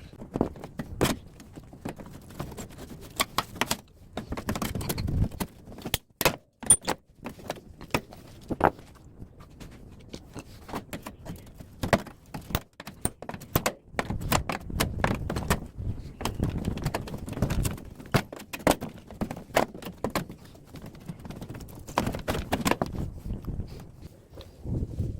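Metal parts of a scrapped air-conditioner outdoor unit clinking, clanking and knocking as it is taken apart with hand tools, in irregular sharp clicks with some heavier thuds.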